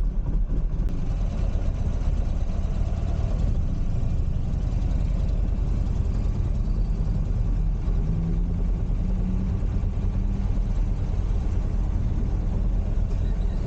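Buell Firebolt XB12R's air-cooled V-twin engine running while riding, a steady low rumble.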